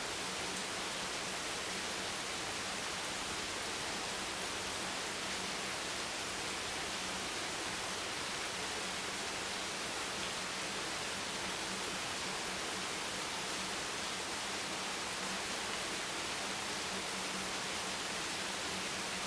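Steady rain noise: an even hiss with no distinct drops or changes, and a faint low hum underneath.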